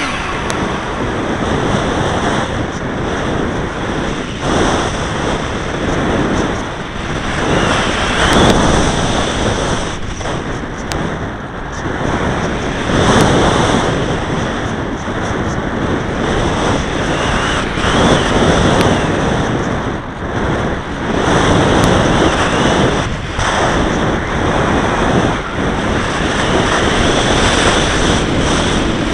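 Wind rushing over the microphone of a small camera carried aboard a radio-controlled model aircraft in flight, swelling and fading every few seconds, with the model's motor running underneath as a faint steady high whine.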